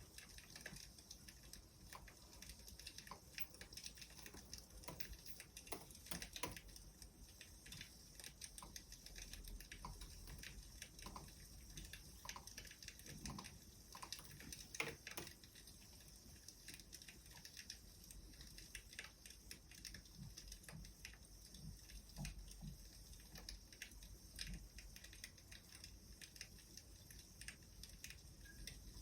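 Faint wood fire crackling: irregular small pops and snaps over a steady hiss.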